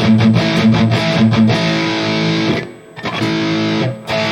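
High-gain distorted electric guitar playing a chugging rhythm riff through a Mooer GE200 modeler. The chain is a Tube Screamer–style overdrive, a noise gate, a Mesa V30 cabinet impulse response and hall reverb. The playing breaks off briefly about two and a half seconds in, then resumes.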